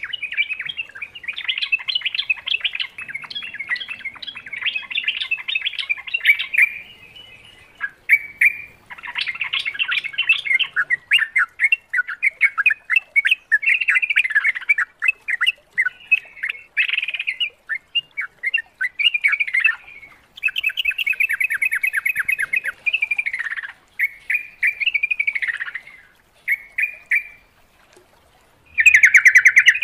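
Yellow-vented bulbul (trucukan) singing in long runs of rapid, chattering notes, with brief pauses between phrases.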